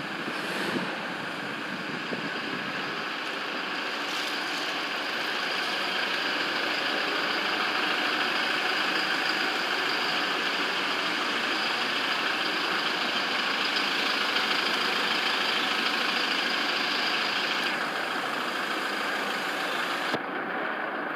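Toyota Hilux Revo GR-Sport pickup's engine idling steadily after a cold start, a little louder from about four seconds in.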